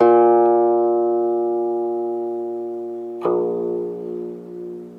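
Guqin with steel strings: a note plucked and left to ring, fading slowly for about three seconds, then a second pluck a little after three seconds in, its ringing wavering.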